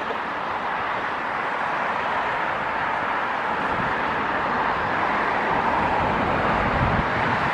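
Starlux Airbus A350-900's Rolls-Royce Trent XWB jet engines on final approach, a steady jet whine and rush slowly growing louder, with wind gusting on the microphone near the end.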